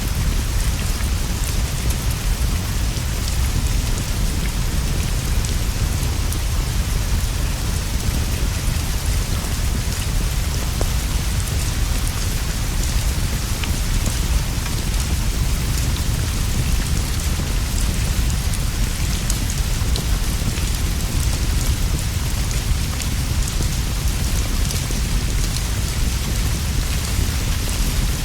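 Steady rain falling on leaves and a roof, an even hiss with a constant low rumble underneath and scattered faint ticks of drops.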